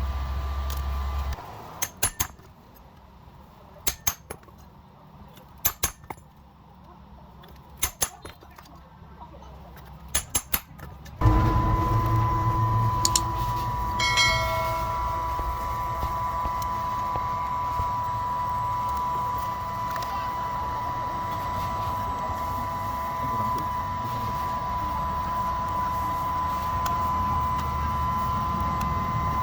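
A low hum stops, followed by sharp clicks in twos and threes about every two seconds. About eleven seconds in, a motorized workshop machine starts and runs steadily with a high whine over a low rumble.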